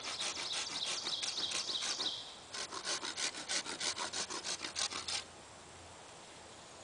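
Hand saw cutting wood in quick back-and-forth strokes, about four a second, stopping about five seconds in.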